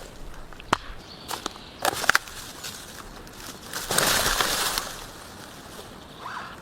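Scattered sharp knocks and cracks, then a short, louder rustle about four seconds in, like dry material being crunched or brushed.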